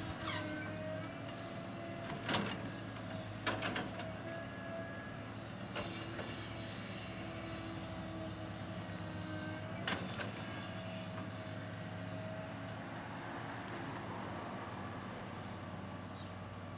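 Cat excavator's diesel engine running steadily, with a steady whine over it that fades out about two-thirds of the way through. Sharp knocks come a little after two seconds, twice around three and a half seconds, and once near ten seconds.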